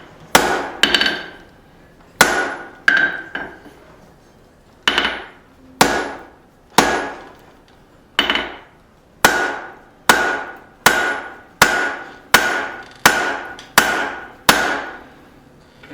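Hand hammer striking hot steel on an anvil, about sixteen blows, each with a short ring. The blows come unevenly at first, then faster and steadier in the second half. This is the set-down that isolates the rein of a forged tong.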